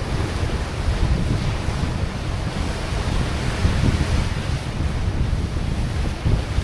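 Wind buffeting the microphone over the steady rush of sea waves breaking against a rocky shore.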